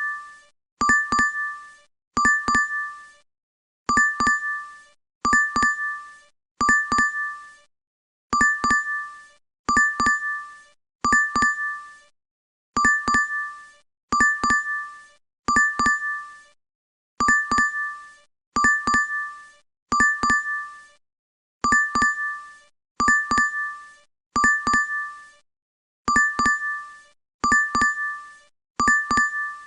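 DoorDash app notification chime ringing over and over: short two-tone dings in runs of about five, with a brief pause between runs.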